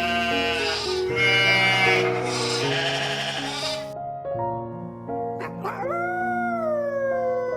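Background music with animal calls over it: short wavering calls in the first half and one long call falling in pitch about six seconds in.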